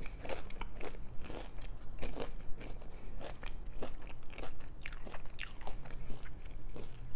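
Close-up crunching and chewing of crispy fried food in the mouth, an irregular run of crisp crunches with no pause.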